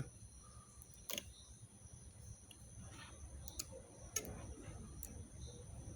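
Faint clicks from multimeter probes and the battery pack being handled: four or five short, sharp ticks spread over several seconds, with low background noise.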